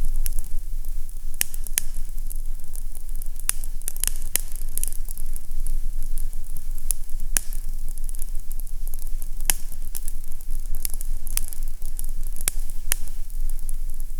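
Fireplace fire crackling, with sharp irregular pops and snaps over a steady low rumble.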